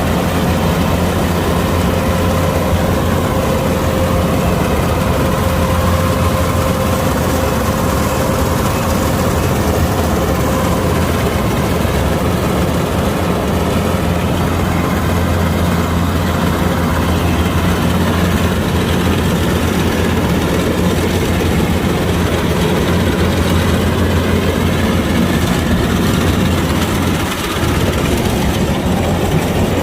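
Kubota DC-105X combine harvester's diesel engine running steadily at constant speed, a loud even drone with a deep low hum.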